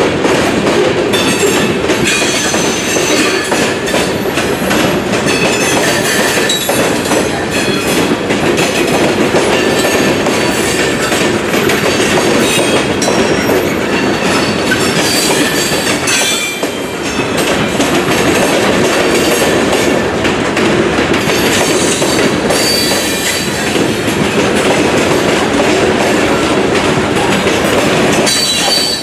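Train cars rolling past at close range: wheels clicking steadily over the rail joints and squealing thinly, with a short dip in loudness about two-thirds of the way through.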